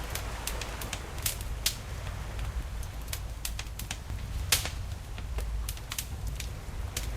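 Campfire crackling with irregular sharp pops, the loudest about four and a half seconds in, over a low steady rumble of sea waves.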